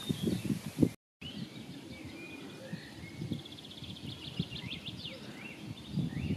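Wild birds singing and calling, including a rapid high trill of evenly repeated notes in the middle, over a low outdoor rumble. In the first second, louder low pulsing sounds break off at an abrupt cut.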